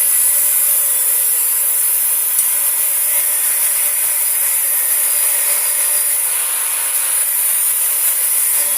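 A steady, even hiss with no strokes or rhythm, weighted toward the high end.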